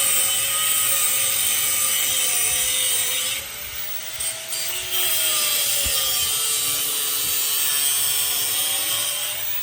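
A power tool working stainless-steel exhaust tubing: a steady, hissing cut with a faint wavering tone in it. It eases off for a second or so midway, then resumes.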